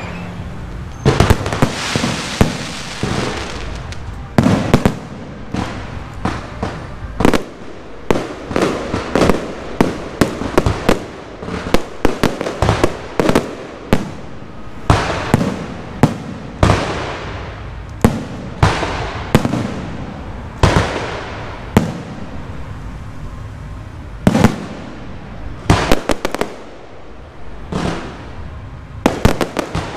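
Aerial firework shells bursting overhead: dozens of loud bangs at irregular intervals, often several in quick succession, each trailing off between the buildings.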